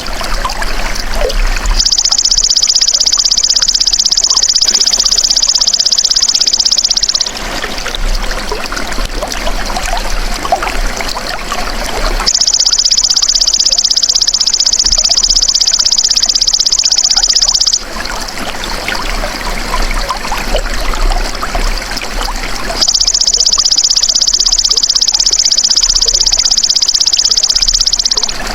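Belalang emas (golden grasshopper) calling three times, each a long, fast-pulsing high buzz lasting about five seconds. Steady trickling water runs underneath.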